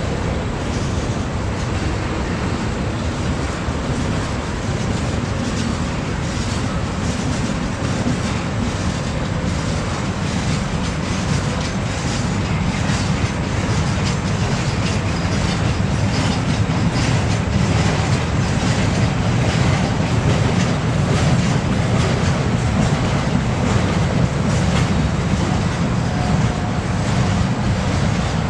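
Freight train cars rolling past, with a continuous low rumble and steel wheels clicking rapidly over the rail joints, getting a little louder partway through.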